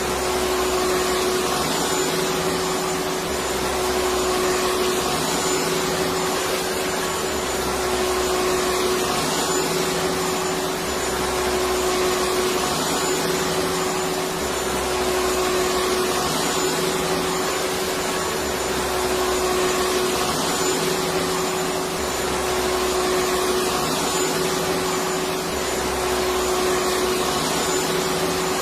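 Electric vacuum cleaner running steadily: a loud, even motor and airflow noise with a constant hum, and a low throb that comes back about every three and a half seconds.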